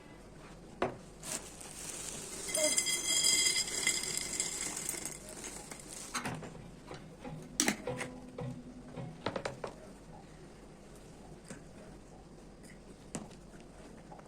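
Kitchen containers and utensils being handled: scattered clinks and knocks, with a louder stretch of rattling that lasts about three seconds, starting around two seconds in.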